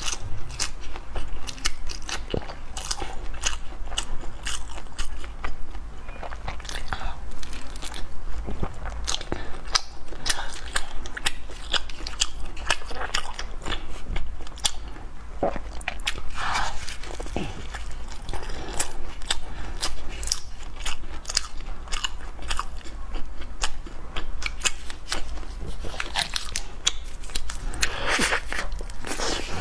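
Close-up chewing and biting of purple sticky-rice cakes, a steady run of sharp mouth clicks and smacks.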